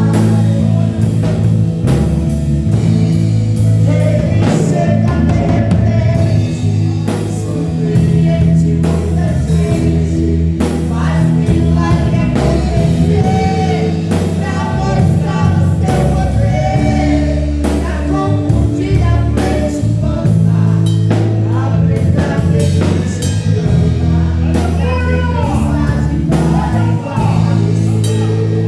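Live gospel worship music: a woman singing over a band with bass guitar and drum kit.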